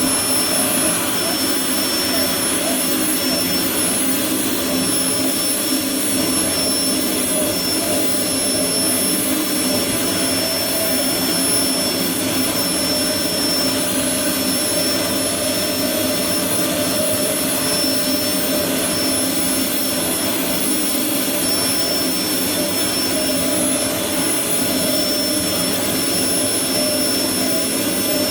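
Vacuum cleaner running steadily, with a high whine over its motor and airflow noise.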